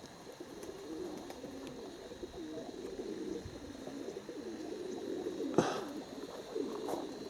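Domestic pigeons cooing, a low, wavering, continuous burble of several birds. A sharp click sounds once about five and a half seconds in.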